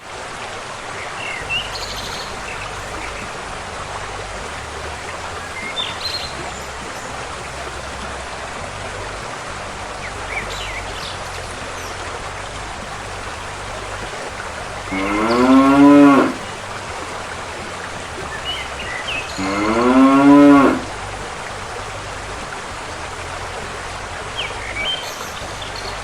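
A cow mooing twice, two long calls about four seconds apart, over a steady background hiss.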